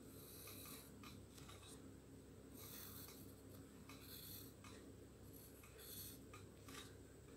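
Faint pencil strokes scratching on paper: a series of short sketching strokes, some longer, over a low steady hum.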